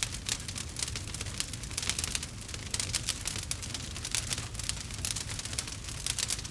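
Wood fire crackling in a fireplace: many quick sharp pops and snaps from the burning logs over a low steady rumble.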